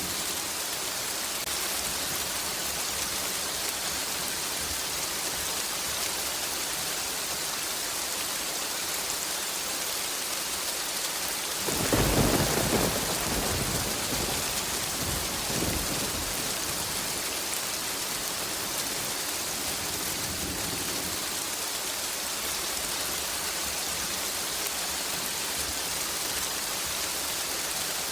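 Steady heavy rain falling, with one sudden thunderclap about twelve seconds in that rumbles on and dies away over several seconds.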